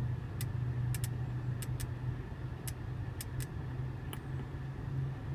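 Audi MMI rotary controller clicking as it is turned and pressed: about a dozen short, sharp clicks at irregular intervals, over a steady low hum in the car's cabin.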